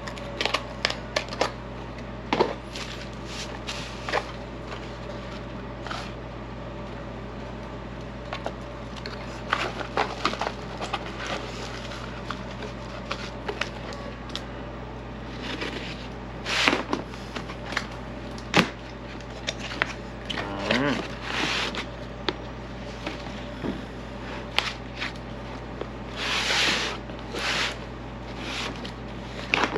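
Packaging and parts being handled during an unboxing: scattered clicks and light knocks, with several longer rustling, crinkling passes of plastic wrapping, the loudest about two-thirds of the way through and near the end, over a steady low hum.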